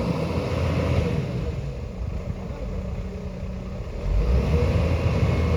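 Heavy construction machine's engine running with a low rumble, easing off for a couple of seconds and then coming back louder about four seconds in.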